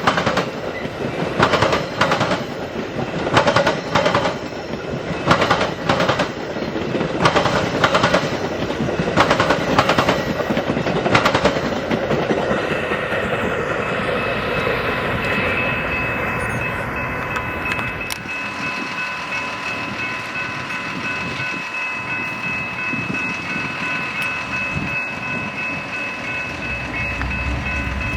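Train passing, its wheels clacking over rail joints in a regular beat of about one to two clacks a second. After about twelve seconds the clacking fades and a steady chord of several held tones carries on to the end.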